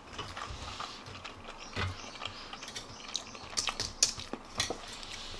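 Crunching of deep-fried starch and egg-white batter being chewed: a string of irregular, crisp clicks.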